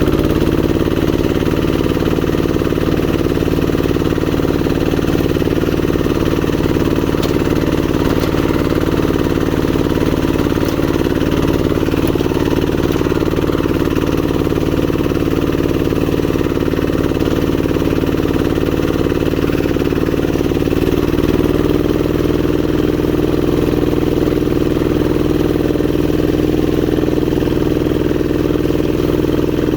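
Old Kubota RD85 single-cylinder diesel engine on a two-wheel hand tractor, running steadily under plowing load in a rice paddy. Its note shifts slightly about two-thirds of the way through.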